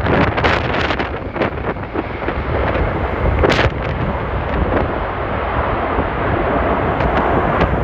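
Strong crosswind buffeting the microphone in irregular gusts, over the low, steady rumble of an Emirates Airbus A380's jet engines on landing.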